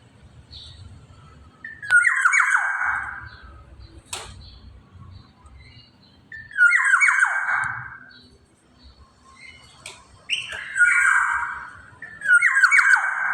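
Black-naped oriole giving harsh, rasping calls: four of them, each about a second long, a few seconds apart.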